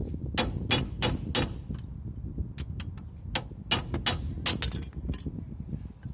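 Hammer striking steel in a run of sharp blows: four about a third of a second apart near the start, then after a pause about eight more in the second half, over a steady low rumble.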